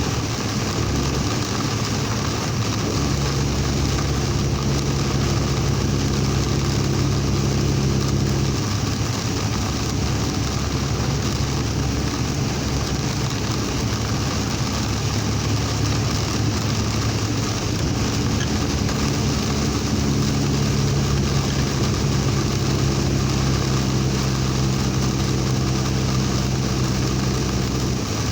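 Driving in heavy rain, heard from inside the vehicle: a dense, steady hiss of rain and road spray over a motor vehicle's engine drone. The engine hum swells twice, once for several seconds early on and again during the last third.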